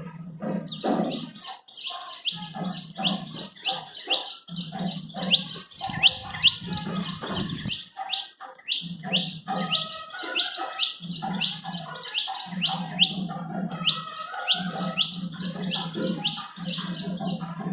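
Birds calling: fast runs of short, high chirps, each sliding downward, about nine a second, repeated in bursts of a few seconds. A lower buzzing sound comes and goes underneath.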